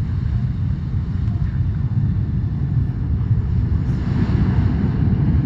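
Boeing 737's twin turbofan engines at takeoff power: a loud, steady rumble, swelling slightly about four seconds in.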